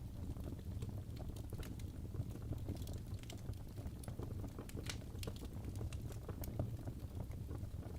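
Wood fire burning in a fireplace: irregular crackles and pops of burning logs over a steady low rumble of the flames.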